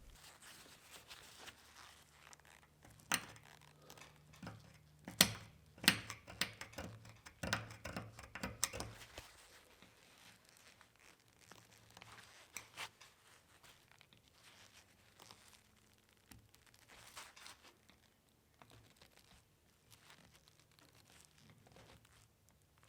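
Metal parts and hand tools being handled on a workbench: scattered sharp knocks and clicks for the first nine seconds or so, then fainter rustling and scraping.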